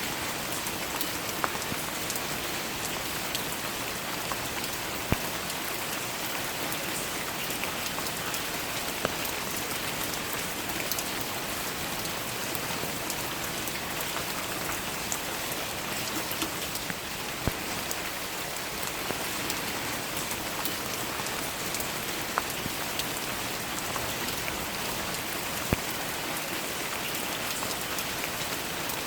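Steady rainfall, an even hiss of many drops, with single close drops ticking sharply every second or two.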